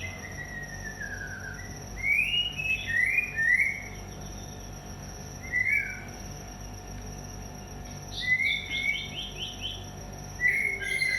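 White-rumped shama calling in about five short bouts of whistled notes that glide up and down, with a thin steady high tone behind them.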